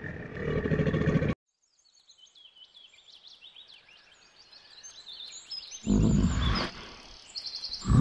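Brown bear growling low: a growl that cuts off abruptly about a second and a half in, then small birds chirping high and quietly, and two more growls, one about six seconds in and one near the end.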